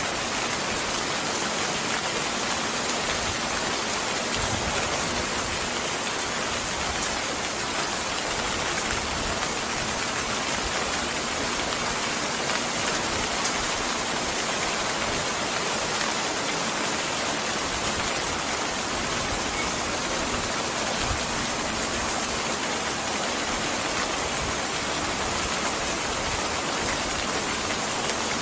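Steady rainfall, an even hiss of rain falling on a surface with no change in level.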